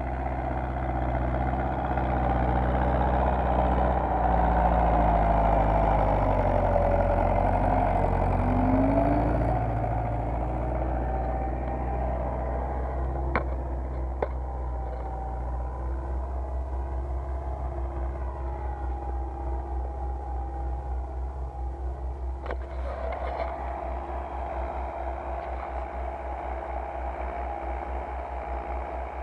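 MTZ tractor's four-cylinder diesel engine running, louder through the first third, then easing back to a lower, even throb like an idle. A few sharp clicks can be heard about halfway through.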